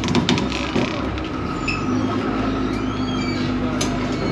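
Vaporetto water bus engine running with a steady low drone, with a few knocks near the start and short high squeaks in the middle.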